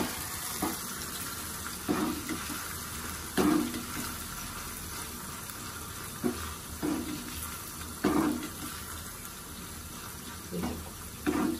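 Corn kernels frying in hot oil in a steel pan, a steady sizzle. A metal spoon stirs and scrapes against the pan in short strokes every second or so.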